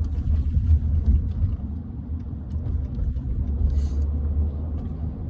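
Steady low road rumble of a car heard from inside the cabin while it is being driven, engine and tyre noise with a few faint ticks and rattles.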